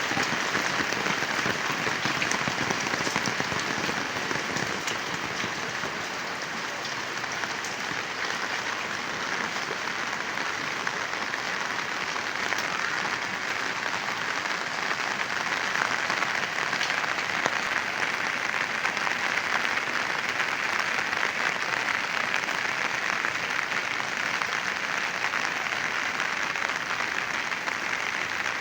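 Heavy rain falling steadily: a dense, even hiss of countless drops with no break.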